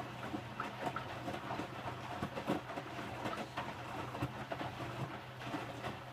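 Electrolux W455H commercial washing machine tumbling a wet load of towels in its drum: a steady motor hum with irregular knocks and thuds as the load turns over.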